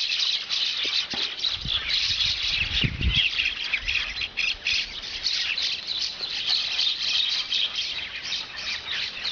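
A group of mynas calling together, a dense, continuous chatter of many short high notes overlapping one another. About two seconds in there is a brief low rumble on the microphone.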